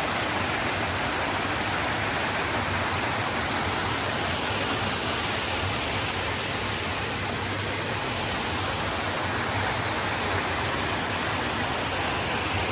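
Waterfall pouring over a rock cliff: a steady rushing of falling water that holds an even level throughout.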